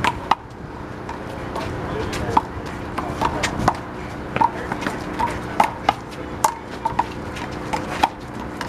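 Big blue rubber handball smacked by players' hands and slapping off the wall and court in a fast doubles rally: a string of sharp, irregular smacks about every half second to a second.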